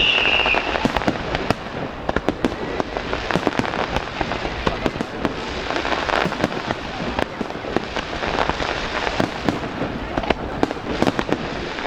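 Fireworks display: dense, rapid crackling pops and bangs throughout, with a high whistle dying away in the first second.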